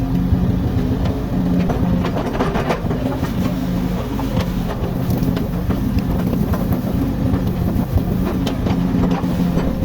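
Komatsu hydraulic excavator's diesel engine running steadily, with scattered metallic clanks and knocks from the machine at work.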